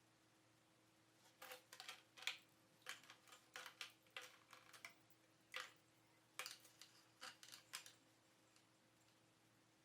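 A quick, irregular run of small sharp clicks and clinks, about twenty in all, between about one and eight seconds in, like small hard parts or tools being handled on a workbench.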